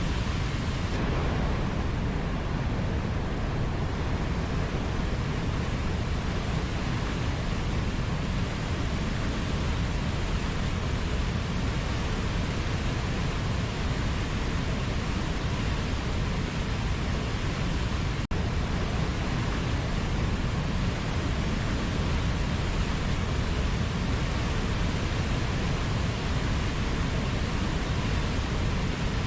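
Steady, even rushing noise of a nature ambience, heaviest in the low end, with a split-second dropout about eighteen seconds in.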